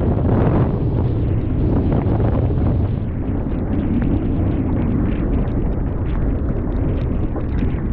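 Small fishing boat under way while trolling: a steady low rumble from its motor, with wind buffeting the microphone.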